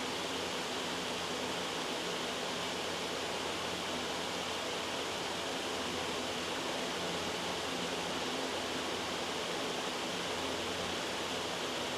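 Loud, steady white noise, an even hiss that does not change.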